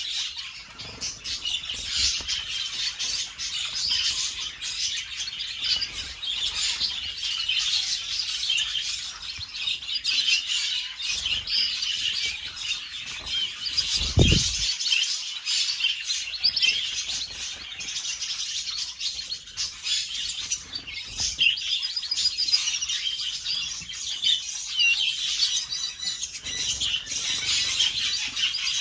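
Several domestic canaries chirping and calling over each other without a break, with wing flutters and small clicks, and a brief low thump about halfway through.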